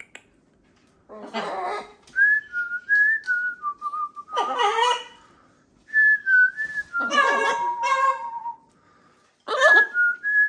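A short whistled tune of a few stepping notes, repeated three times. Between the tunes come loud, harsh parrot calls.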